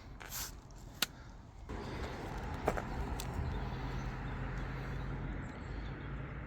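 A vehicle engine running with a steady low hum, coming in about two seconds in, with a few light clicks in the first few seconds.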